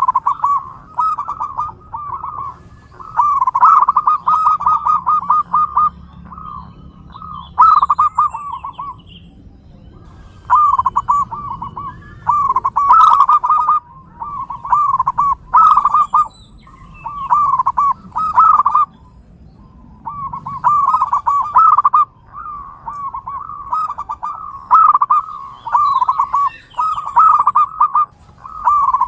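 Zebra doves (perkutut) cooing: rolling, trilled coo phrases repeated one after another with short pauses. Faint high chirps come in now and then.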